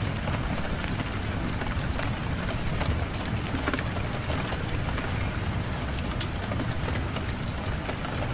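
Fireplace fire crackling, with many sharp pops and snaps, over a steady low rumble of wind.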